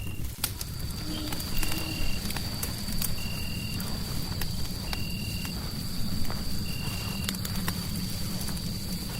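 Fireplace crackling with a steady low rumble and scattered sharp pops. Over it runs a steady high whine, with a short high chirp repeating about every one and a half to two seconds.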